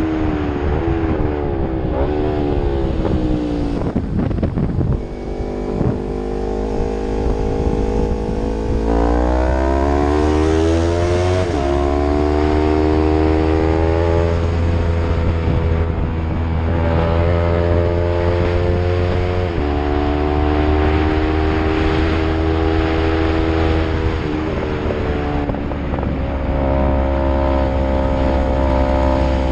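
Yamaha MT-03 motorcycle with an Arrow full-system exhaust, running under load. The engine note climbs in pitch, then drops at each gear change, several times over.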